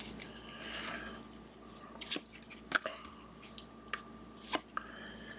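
Trading cards being handled on a table: a soft rustle of cards and sleeves, then a few separate sharp clicks and taps.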